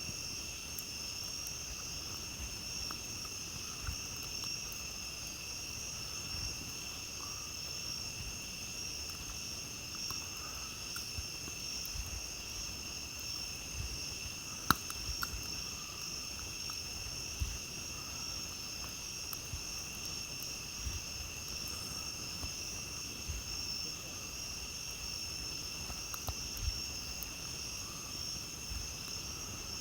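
A steady chorus of night insects, crickets trilling without a break. Over it come scattered sharp crackles and pops from a campfire, the loudest about halfway through.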